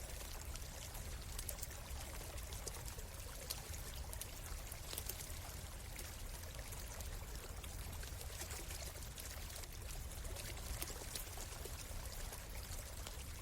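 A stream running steadily, with small sharp crackles from a campfire scattered throughout.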